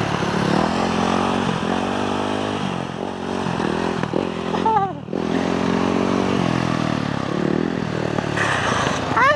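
Off-road motorbike engines running and revving, the pitch climbing and dropping through the gears. About five seconds in, one engine falls away and dips. Near the end, one revs up sharply and then drops off in a long falling whine.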